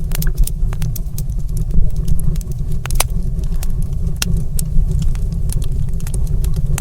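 Wood fire in a stone fireplace crackling, with sharp irregular pops and snaps over a steady low rumble of the flames.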